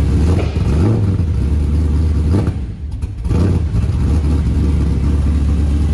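Modified Holden VZ Commodore SS-Z ute's cammed V8, stroked to 6.2 litres, running loudly through a twin 3-inch stainless exhaust. It idles with a few short blips of the throttle.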